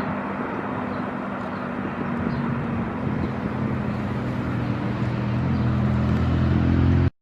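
Boeing 737-800's CFM56 jet engines running at low power, a steady rumble with low droning tones that grow louder over the last few seconds, then cut off abruptly.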